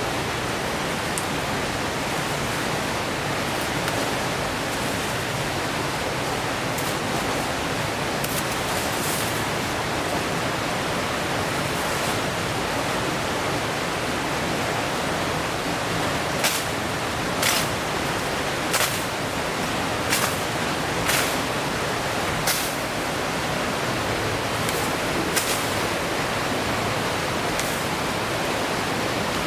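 Steady rush of river water. From about midway there is a run of short sharp knocks, roughly a second apart.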